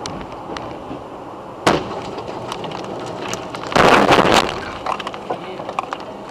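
Car collision heard over road noise: a sharp bang about a second and a half in, then a longer, louder crash with breaking glass near the middle, followed by scattered clicks of debris.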